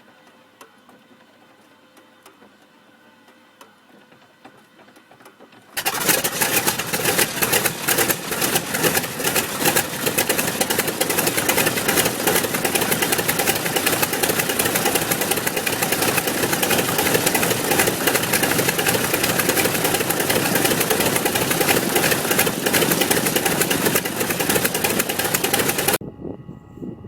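A large Curtiss-Wright aircraft piston engine running loud and rough. It comes in suddenly about six seconds in, after several seconds of faint sound, and cuts off abruptly near the end.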